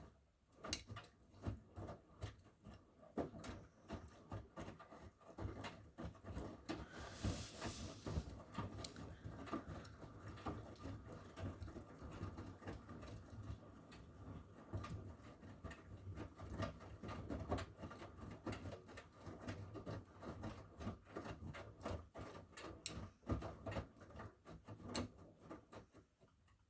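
Miele W1 front-loading washing machine drum turning during the wash phase, wet laundry tumbling with irregular knocks and clicks over the steady hum of the motor. A brief hiss comes about seven seconds in, and the drum stops near the end, as in the turn-and-pause wash rhythm.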